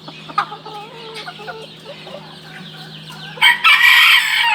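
Chickens clucking quietly, then a rooster crows loudly for about a second near the end.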